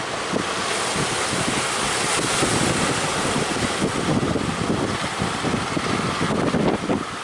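Strong wind buffeting the microphone in irregular gusts, over a steady rush of surf.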